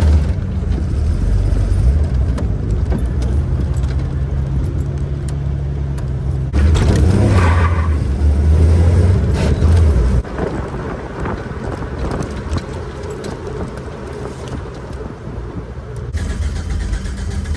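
Motor vehicle engine running, getting louder about six and a half seconds in and dropping back suddenly about ten seconds in.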